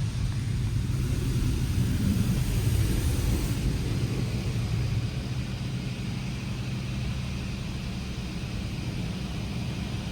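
Touch-free automatic car wash running, heard from inside the car: a steady low machine hum and rumble with water spray on the car body. The hiss is stronger for a couple of seconds near the start and eases off after about five seconds.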